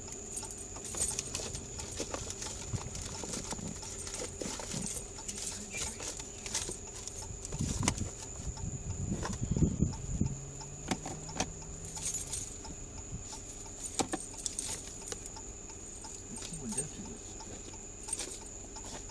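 Handling noise from searching a car: repeated clicks, rattles and jangling, louder about halfway through, over a steady high-pitched whine.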